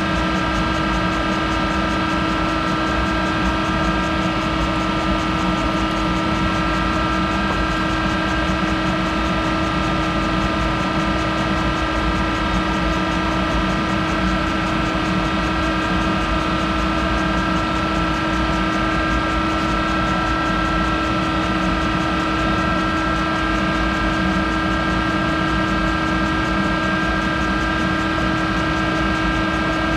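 Monarch 10EE lathe running steadily while turning a hardened steel tool holder: a constant machine hum with a few steady whining tones over a broad noise, unchanging throughout.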